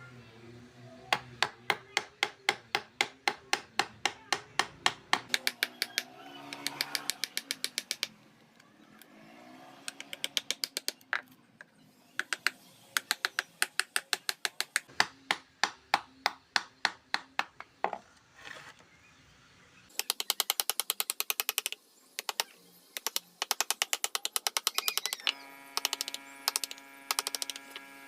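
Wood-carving chisel struck with a mallet in quick runs of sharp taps, about five a second, with short pauses between runs as the carver cuts into the wood.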